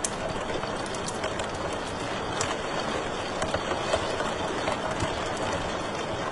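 Wood fire in a fireplace crackling: frequent sharp pops and snaps over a steady rushing noise of the burning fire.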